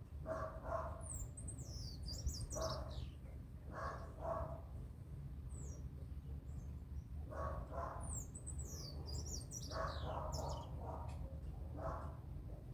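Birds calling: two bouts of rapid, high-pitched, falling chirps, with repeated short, lower calls in between, over a steady low hum.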